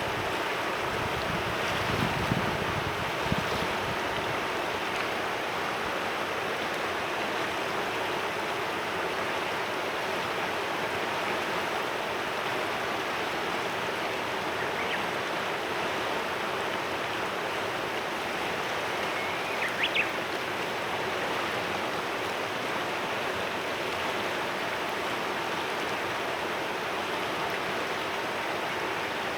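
Clear mountain river running steadily over stones, with a couple of louder splashes about two to three seconds in. A single short bird chirp sounds about two-thirds of the way through.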